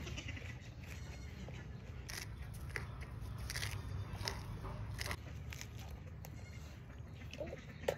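Raw leafy greens being bitten and chewed: a run of short, crisp crunches and snaps of fresh leaf through the middle, and one more near the end, over a low steady rumble.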